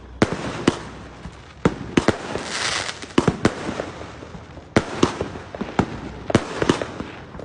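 Fireworks going off in a dense, irregular barrage of sharp bangs, several bursts trailing into crackling sparkle.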